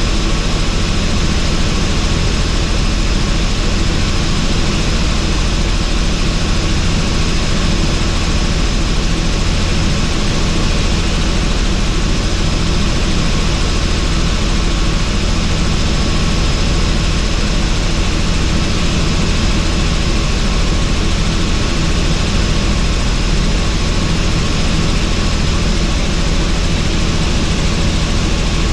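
Helicopter in flight with the doors off: steady rotor and engine noise with a low, even drone, mixed with wind rushing through the open cabin.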